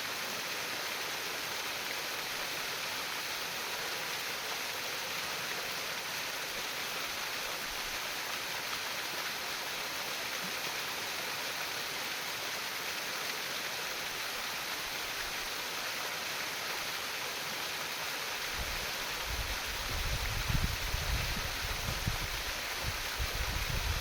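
Stream water trickling and flowing steadily. A low, uneven rumble joins in for the last few seconds.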